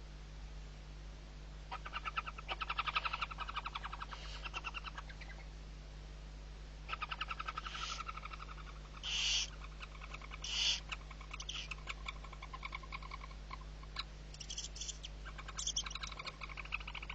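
Barn owl chick calling: bouts of rapid, chattering twitter, each a few seconds long, broken by several short hoarse hisses.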